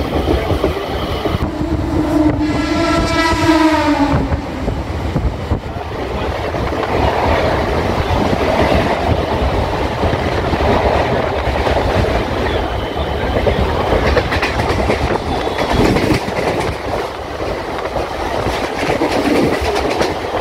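Suburban electric local train (EMU) running, with steady wheel-on-rail rumble and clatter. A train horn sounds once for about two and a half seconds, a second or two in.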